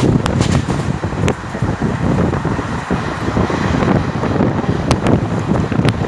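Passenger train running at speed, heard from on board: a steady, loud rumble of wheels on the track with wind buffeting the microphone, and a few sharp clicks.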